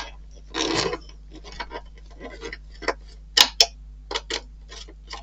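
Irregular small clicks, taps and rustles of plastic model-kit parts and wiring being handled, with two sharper clicks about three and a half seconds in.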